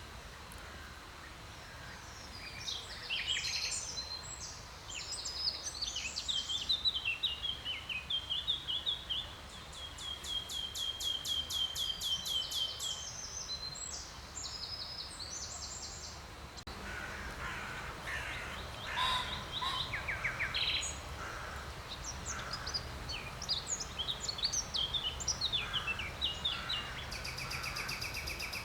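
Songbirds singing: quick, varied phrases of high notes, with fast trills of repeated notes. The song pauses and resumes about halfway through. A low steady hum runs underneath.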